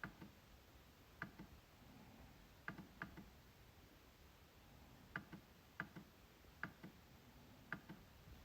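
MacBook trackpad being clicked: about eight short, sharp clicks at uneven intervals, some in quick pairs.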